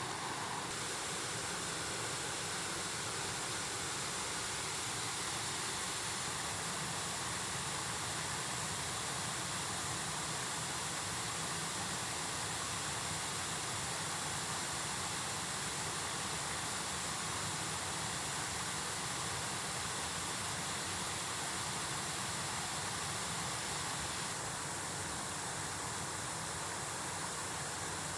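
Mountain stream rushing, a steady even wash of flowing water, its tone changing slightly near the end.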